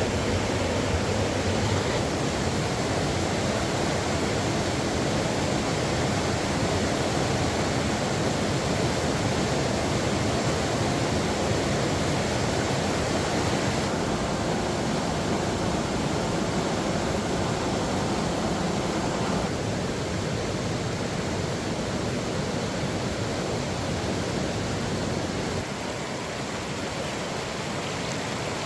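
Steady rush of fast-flowing floodwater, stepping a little quieter twice in the latter half.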